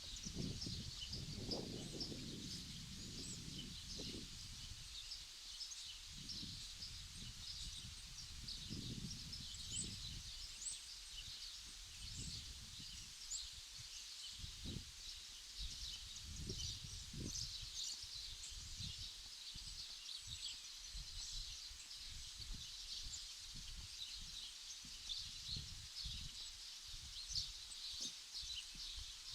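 Many small birds chirping continuously, with irregular low rumbles underneath.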